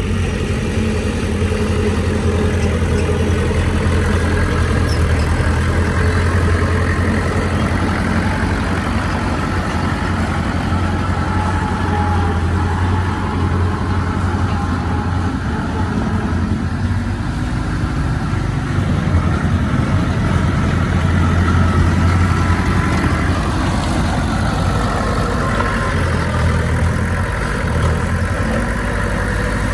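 Diesel engine of heavy earthmoving machinery running steadily under varying load, its deep hum swelling and easing, strongest around twenty seconds in.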